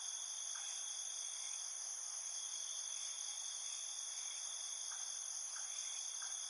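Steady chorus of insects such as crickets, a continuous high trilling at several pitches that holds level throughout.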